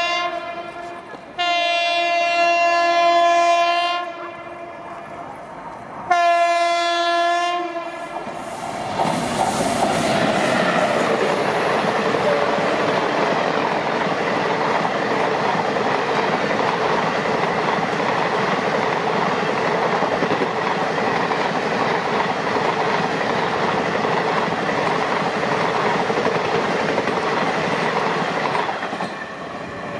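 Indian Railways WAP-7 electric locomotive's horn sounding three times in the first eight seconds, the first blast already going at the start and the last one shorter. Then the express train runs past at speed, wheels and coaches rushing and clattering over the rails for about twenty seconds, fading near the end.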